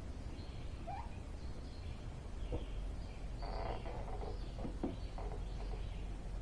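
Birds chirping faintly over a steady low rumble, with a few light knocks and handling noises in the middle.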